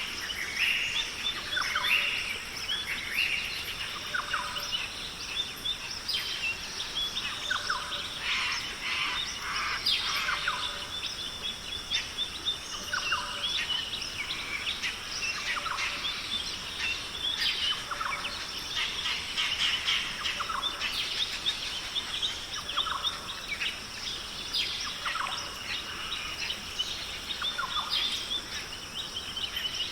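Australian rainforest birds calling over one another: many short chirps and whistles from several birds, over a steady high hiss.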